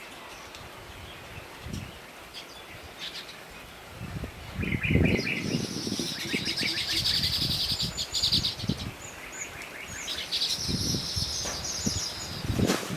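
A small bird chirping in fast trills, starting about four seconds in and coming again after about ten seconds, with low rustling thumps alongside.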